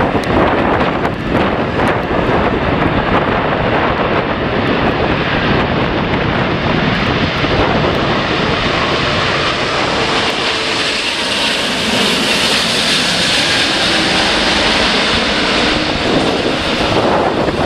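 Jet airliner's engines passing during a landing, their hissing whine building to a peak about two-thirds of the way through and then easing, over strong wind buffeting the microphone.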